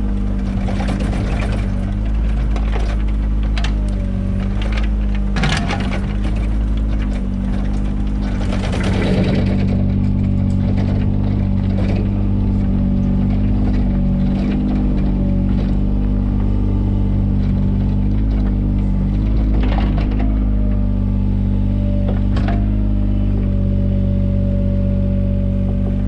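Mini excavator's engine running steadily under hydraulic load, its pitch shifting a little as it works, with scattered knocks and clanks and a scraping rush about nine seconds in.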